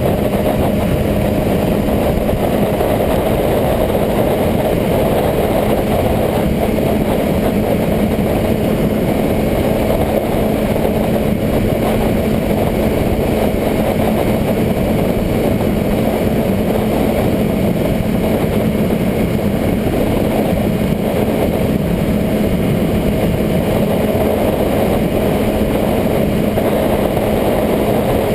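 Motorcycle engine running steadily at a constant speed, an even drone with a steady hum that holds throughout without revving up or down.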